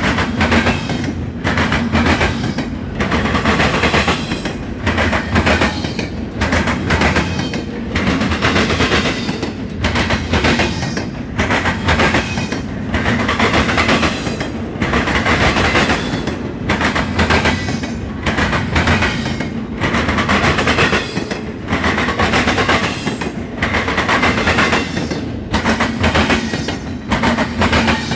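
Norfolk Southern intermodal freight train's cars rolling past close by, the wheels clattering over rail joints in a steady repeating clickety-clack.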